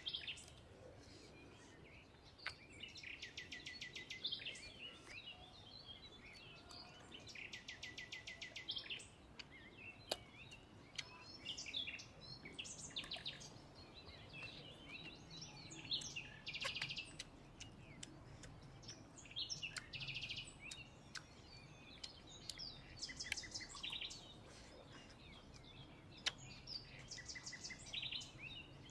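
Small birds chirping, with a rapid, evenly pulsed trill of about a second recurring every few seconds, over faint background noise. A few light clicks come in between.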